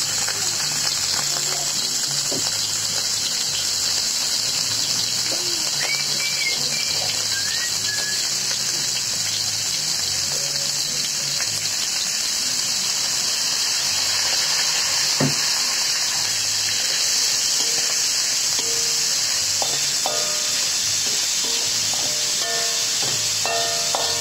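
Diced meat sizzling steadily as it fries in a steel wok over a gas flame, with a spatula stirring and scraping it near the end.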